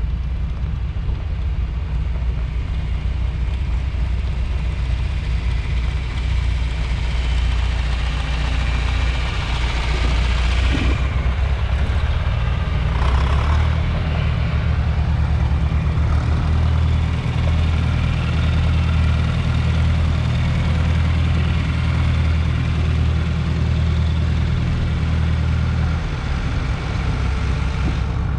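Heavy vehicle engine running at a low, steady idle. About twelve seconds in its note rises as it is throttled up, holds higher, then drops back near the end.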